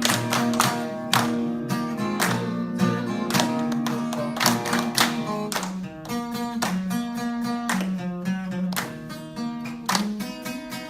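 Acoustic guitar strummed in a steady rhythm, chords ringing between sharp, percussive strokes.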